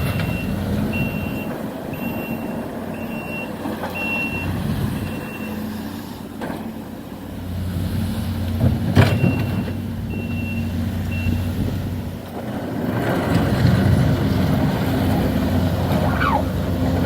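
Backup alarm on heavy demolition equipment beeping in a steady run over a running diesel engine, stopping about five seconds in and sounding again briefly around nine seconds. Two sharp bangs from the demolition, the louder one around nine seconds in.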